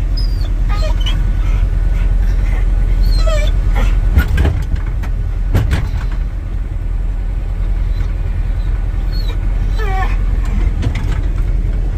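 A dog whining in short, high, wavering glides several times, which the owner puts down to separation anxiety, over the steady low rumble of a running vehicle engine. Two brief knocks come midway.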